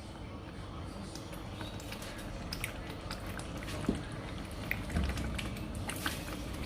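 Thick chili paste frying in a pan, sizzling with scattered pops and crackles, with a spatula stirring it now and then.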